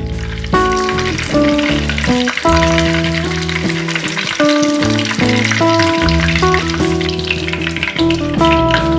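Breadcrumb-coated bread rolls shallow-frying in hot oil in a pan: a steady crackling sizzle. Background music with a melody of held notes plays over it.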